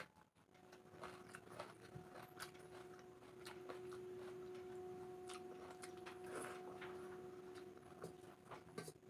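Quiet mouth sounds of someone chewing soaked rice eaten by hand, with small wet clicks and squelches from fingers mixing the watery rice. Under them runs a faint steady hum that holds one pitch from about half a second in to the end.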